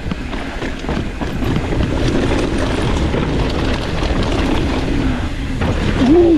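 Mountain bike descending a rough dirt trail at speed: wind rushing over the microphone, with tyres and bike rattling over rocks and bumps in a steady stream of small knocks.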